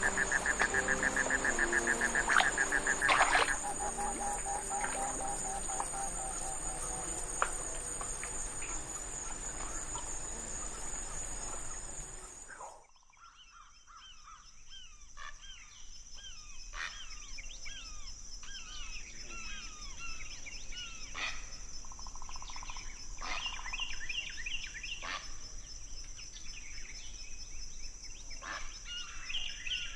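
Tropical rainforest wildlife: a steady high insect drone with scattered calls, then, after an abrupt change a little under halfway in, many short chirping calls over a steady high insect whine.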